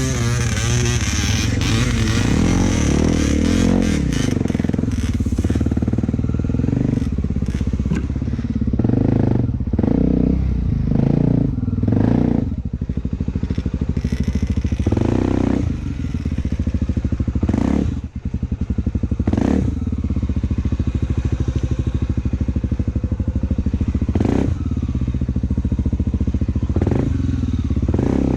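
Honda XR250 Tornado's single-cylinder four-stroke engine running steadily under way, its revs rising and falling in the first few seconds and briefly dropping about two-thirds of the way through. Scattered sharp knocks and clatter are heard over it.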